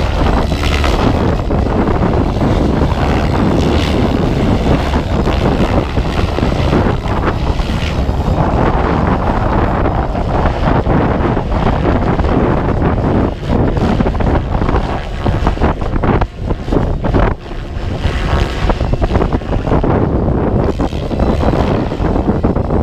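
Heavy wind buffeting on the microphone, easing briefly a few times in the second half, over an SAB Kraken 700 electric RC helicopter in flight.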